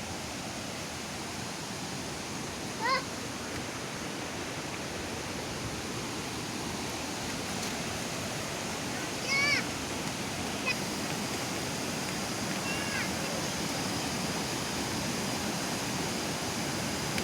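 Steady rushing of a waterfall, with a few short high-pitched calls about 3, 9.5, 11 and 13 seconds in. A faint thin high whistle joins about two-thirds of the way through and carries on.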